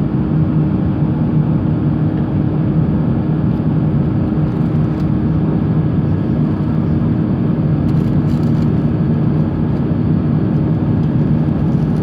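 Steady cabin noise of an Airbus A350-900 in flight: its Rolls-Royce Trent XWB engines and the airflow make an even, low rumble with a faint steady hum.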